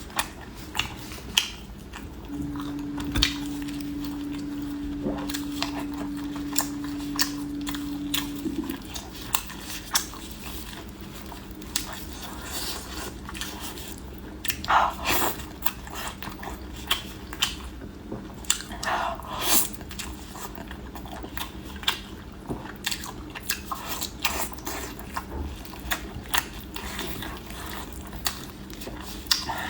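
Close-up biting and chewing of fatty braised pork knuckle, a continual run of sharp, wet mouth clicks and smacks. A steady low hum sounds under it for about six seconds near the start.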